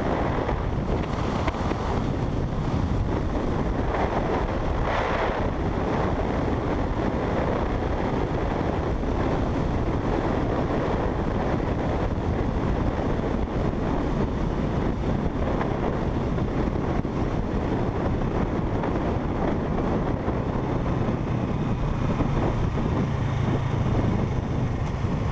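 Wind rushing over the microphone of a moving motorcycle, a steady noise with engine and road sound underneath; a low engine hum comes up more clearly in the last few seconds.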